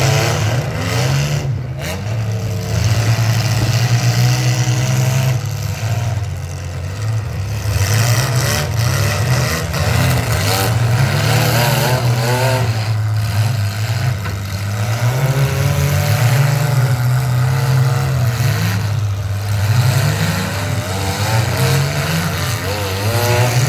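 Demolition derby cars' engines running loud and revving up and down as two mid-size cars maneuver and push against each other.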